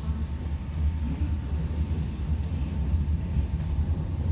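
Electric passenger train running, heard from inside the carriage: a steady low rumble with a faint steady whine above it.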